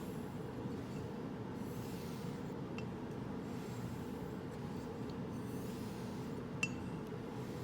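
Straight razor blade drawn in repeated faint rubbing strokes across a hone, over a steady low hum. A faint click comes early and a sharper metallic click near the end.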